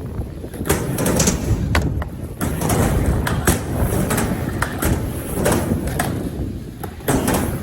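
Skateboard riding a miniramp: a rumble of wheels rolling, with sharp clacks and knocks as the board and trucks hit the ramp and coping. Strong wind buffets the microphone.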